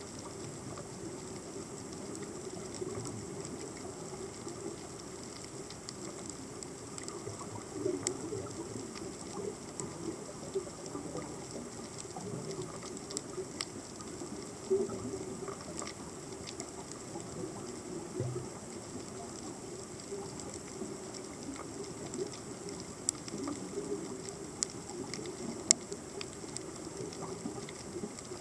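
Underwater ambience picked up by a submerged camera: a steady hiss with many scattered sharp clicks and crackles.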